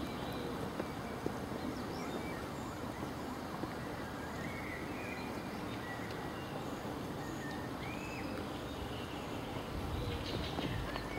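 Birds singing outdoors: scattered short chirps and arching whistled calls over a steady background hiss.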